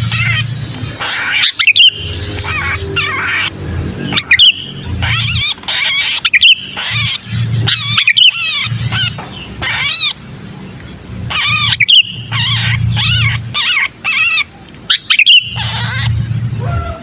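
Sooty-headed bulbul distress calls: fast, harsh, repeated chattering with sharp loud notes every couple of seconds, the 'pinched' call of a bulbul caught in a trap, used as a lure. A low hum comes and goes underneath.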